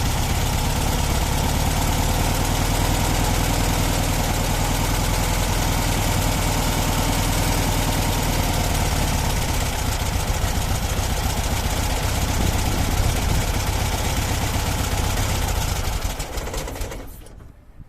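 Volkswagen T2's air-cooled flat-four engine idling steadily, running again after standing all winter; the sound dies away near the end.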